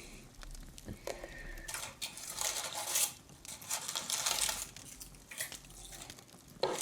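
Close-up rustling and light clinking of Christmas decorations being handled, in several irregular bursts about a second long.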